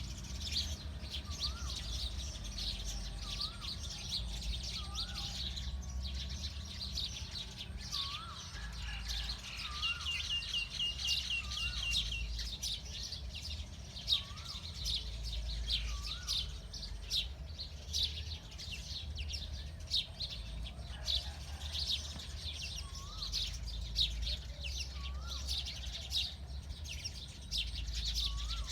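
Several wild birds chirping and singing together, with a short rising-and-falling whistled note repeated every second or two and a quick trill about ten seconds in. A steady low rumble runs underneath.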